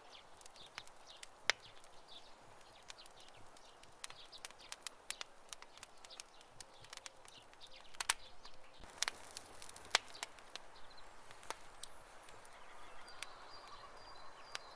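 Wood campfire crackling: irregular sharp pops and snaps over a soft, steady hiss of burning. A few louder pops come about a second and a half in and again around eight to ten seconds in. A faint, high, steady tone enters near the end.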